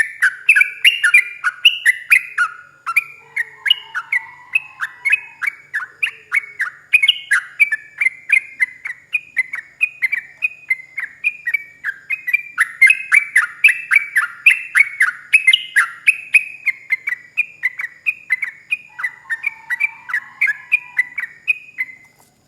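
Yellow-vented bulbul singing a long, unbroken run of quick bubbling notes, about three to four a second. The run stops just before the end. A fainter, lower chattering call comes in twice.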